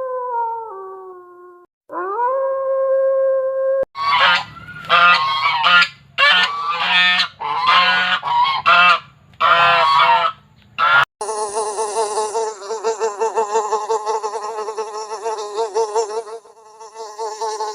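Farm animals calling in several joined snippets: two long level calls, then a quick run of short honking calls, then one long wavering call lasting several seconds.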